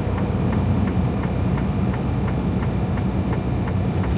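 Hazard-light flasher in a Freightliner Cascadia's cab ticking about three times a second, over the steady low drone of the semi truck.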